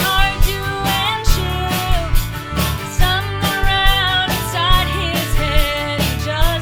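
Americana band playing with a steady beat: drum kit, upright or electric bass, acoustic guitar, and wavering lines from fiddle and pedal steel.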